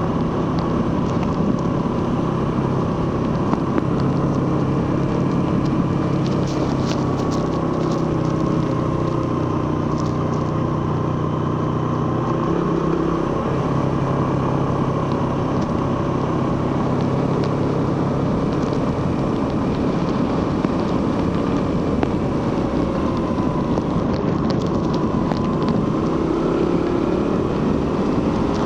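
Suzuki GSX-R150's single-cylinder engine and stock exhaust running steadily under way, the pitch shifting about twelve seconds in and rising near the end as it revs up.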